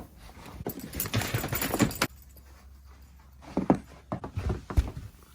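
Crunching and shuffling through deep snow for about a second and a half, then a few separate short steps or knocks.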